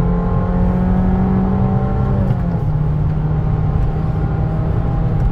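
Abarth 595's turbocharged 1.4-litre four-cylinder engine pulling under acceleration, heard from inside the cabin over road noise. Its steady note steps down a little about two and a half seconds in.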